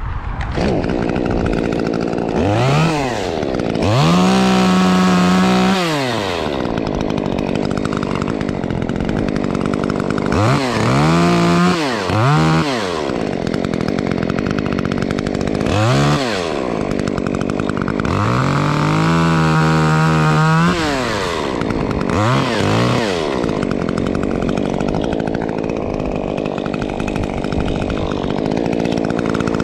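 Stihl MS 150 T top-handle two-stroke chainsaw with an opened-up muffler, idling and revved to full throttle again and again. It is held at full revs for about two seconds twice, with shorter blips between.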